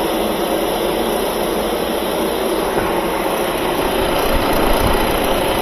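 Refrigerant recovery machine running steadily, its compressor pulling the last refrigerant out of a refrigerator's sealed system into a vacuum of about 10 inches.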